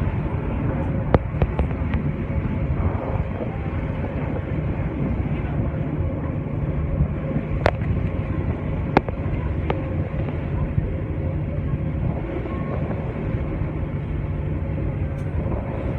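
TranzAlpine passenger train running along the track, a steady rumble of wheels and carriage with a low hum. A few sharp clicks are scattered through it.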